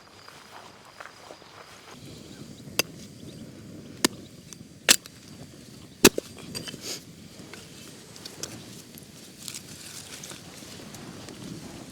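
Four sharp cracks of wood, spaced about a second apart, over a low, steady crackle.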